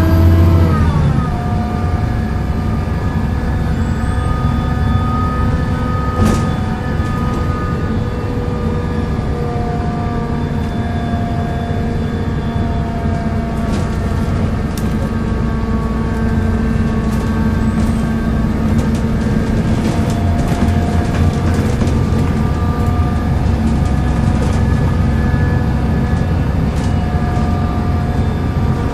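Volvo B7L bus's six-cylinder diesel and driveline running, the engine note falling about a second in, then holding steady with a groaning whine of several steady tones. Scattered light clicks and rattles.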